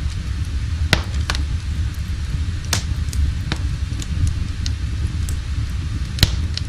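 Wood fire burning in a fireplace: a steady low rumble with a few sharp, irregular crackles.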